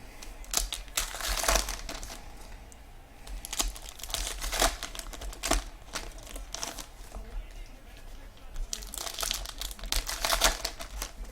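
Trading-card pack wrappers crinkling and being torn open in scattered bursts, as packs from a box of baseball cards are opened.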